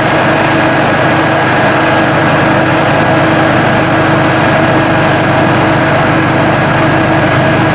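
Sakpattana SS-300 Black Bird combine harvester with its 5-cylinder 170 hp engine running steadily under way. It makes a loud, even mechanical noise with a constant high whine.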